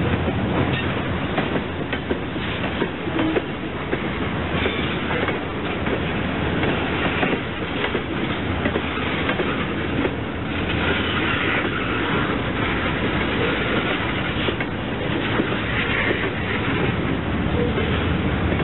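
Freight train of tank cars and boxcars rolling slowly past: a steady rumble and clatter of steel wheels, with repeated clicks as they cross rail joints.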